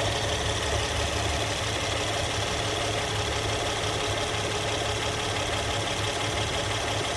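Engine idling steadily and evenly, without the rattle it had before: a new hydraulic tensioner has just been fitted.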